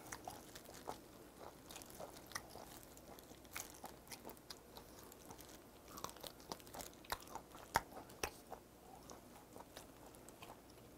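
Faint, scattered mouth sounds of a person biting and chewing braised pig's trotters (jokbal), with soft wet clicks and smacks, a little louder after the middle.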